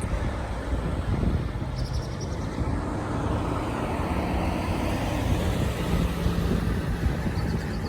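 Wind buffeting and road rumble picked up by a camera mounted on a bicycle as it rides through city traffic, with a faint engine hum from passing vehicles in the second half.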